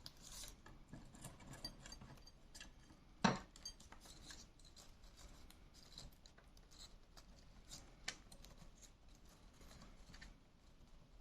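Cockatiels' beaks nibbling at a hawthorn stick and tugging it between them: scattered faint clicks and crunches, with one louder knock about three seconds in.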